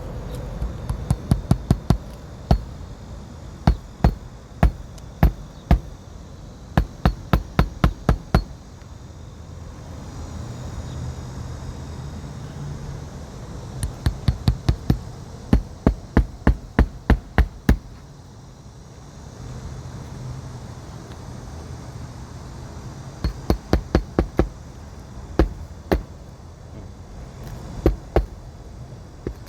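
Hand hammer driving roofing nails into an asphalt shingle ridge cap, in bursts of quick strikes with short pauses between.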